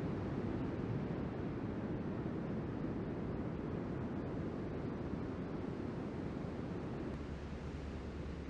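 Steady low noise of wind buffeting the microphone, mixed with ocean surf.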